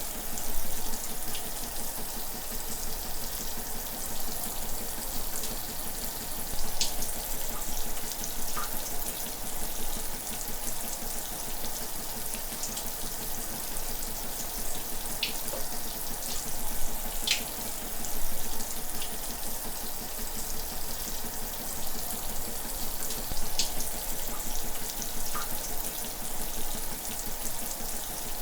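Running shower: a steady rush of water spray with occasional brief splashes standing out.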